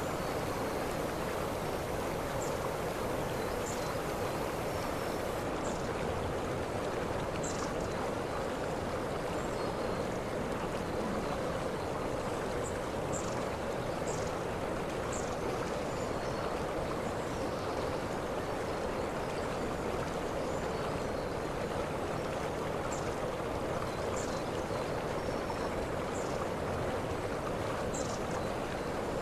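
Waterfall water rushing and splashing steadily, with faint short high-pitched chirps scattered through.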